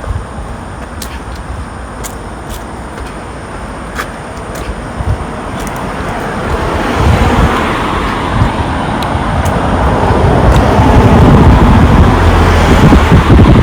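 Road traffic: a motor vehicle's tyre and engine noise, growing steadily louder over the second half as it approaches.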